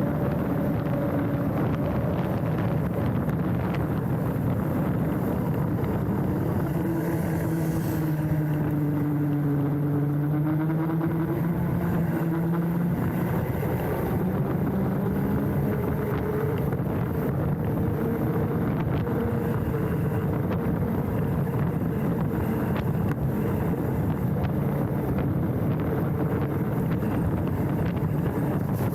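Mountain bike riding down a dirt trail, heard from a handlebar-mounted camera: a steady rush of wind on the microphone and tyre and frame rattle, with a humming tone that rises and falls in pitch with speed, strongest about a third of the way in.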